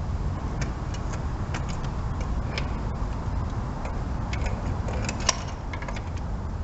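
Socket ratchet clicking in short, irregular runs as a spark plug is worked loose, over a steady low rumble.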